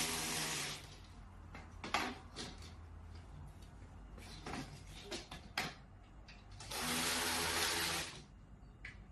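Water spraying or rushing with a steady hum under it, in two bursts: one that cuts off just under a second in and another near the end. Between them are scattered clicks and knocks.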